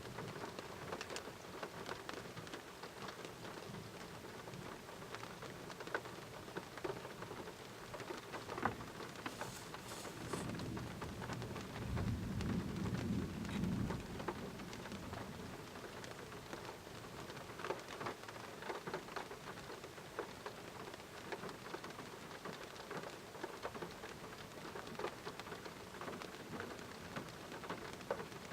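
Steady rain in a thunderstorm, with many sharp clicks of drops striking nearby surfaces. About ten seconds in, a low rumble of thunder swells and then fades over some four seconds.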